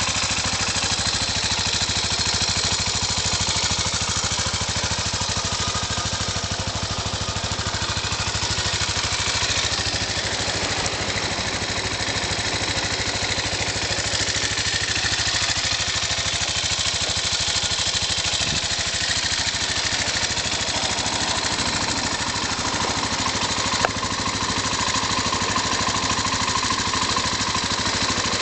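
Honda CBX125 Custom motorcycle engine idling steadily, with one brief click near the end.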